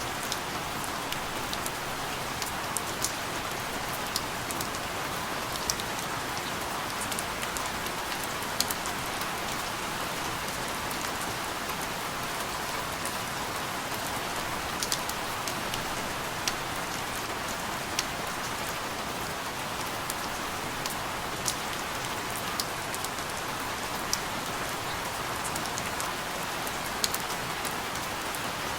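Steady rain falling, an even hiss with scattered sharp drop ticks landing irregularly on a hard surface.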